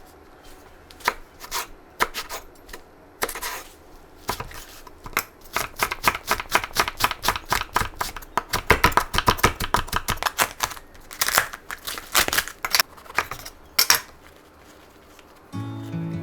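Knife chopping on a cutting board: scattered single chops, then a fast run of about five chops a second through the middle, then a few more. Background music comes back in near the end.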